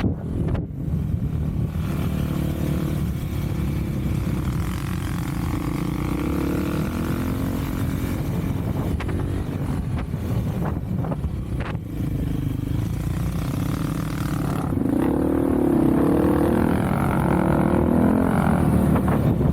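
Off-road vehicle's engine running while riding, its pitch rising and falling with the throttle, louder and busier in the last few seconds.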